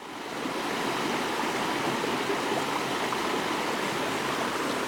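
Fast-flowing rainforest stream water rushing steadily.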